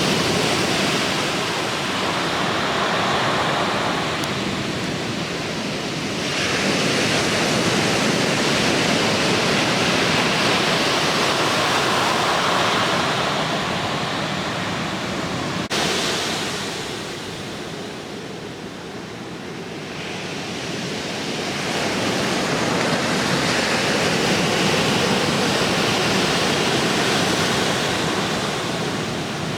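Ocean surf from a leftover typhoon swell: waves breaking and washing in, the rushing noise swelling and easing over several seconds. A brief click about sixteen seconds in.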